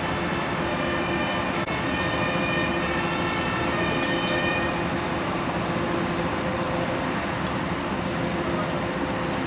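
Street noise with vehicle engines running steadily, and a siren's tone sounding in the first half and dying away about five seconds in.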